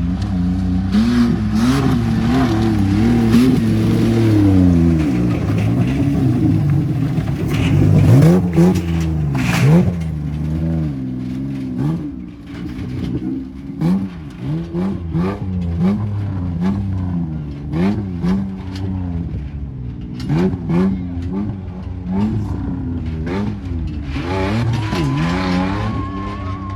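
Off-road truck engine revving hard again and again, its pitch rising and falling as the throttle is worked, with sharp knocks and clatter about eight to ten seconds in.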